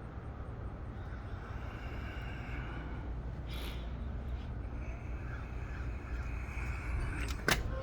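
Steady low outdoor background rumble, with faint higher tones in the middle and one sharp click near the end.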